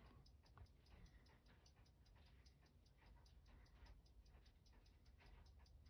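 Faint, rapid, even ticking of a running mechanical watch movement, about six ticks a second.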